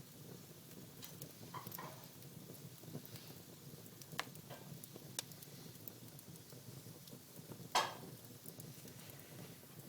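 Wood fire burning in a fireplace: a low, steady hiss of flames with scattered sharp crackles and pops, the loudest pop about three-quarters of the way through.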